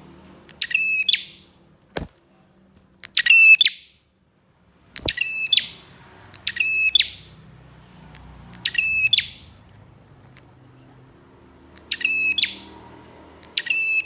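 Prinia (prenjak) singing: seven short phrases, each a rapid string of sharp, high notes, repeated every one and a half to two seconds. A sharp click comes about two seconds in and a fainter one near five seconds.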